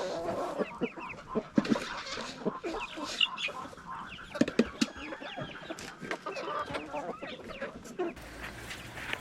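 A flock of chickens clucking, with many short overlapping calls.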